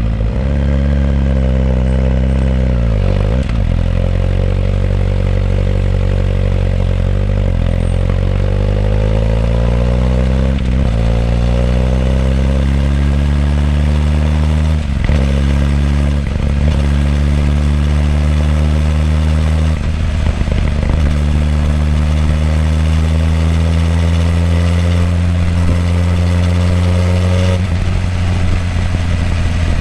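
Suzuki GSX-R1000R's inline-four exhaust through the stock muffler, recorded close to the muffler while riding. The note climbs in pitch as the bike gathers speed, drops back at several gear changes or throttle lifts, and rises slowly through a long pull in the second half.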